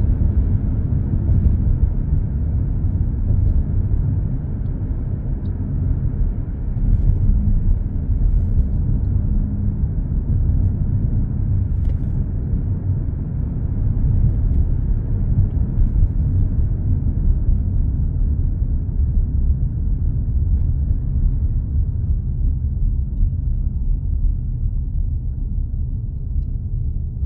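Steady low road rumble of a car cruising on an expressway, heard from inside the cabin: tyre and engine drone with a few faint ticks. Near the end the higher hiss thins slightly.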